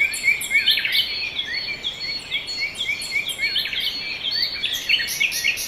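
Many birds chirping and calling over one another in a dense, continuous chorus of short calls.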